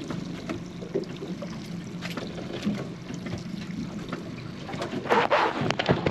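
Fishing boat drifting with its engine running at idle, a steady low hum under water lapping against the hull. A louder rush of noise comes about five seconds in.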